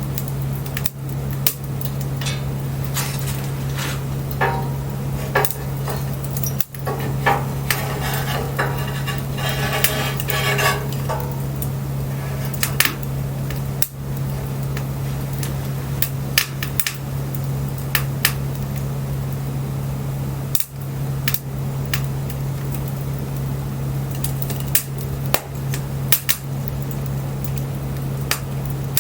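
Wood bonfire crackling and popping, with sharp snaps at irregular intervals over a steady low hum. For a few seconds around the middle the crackle thickens into a denser fizzing sound.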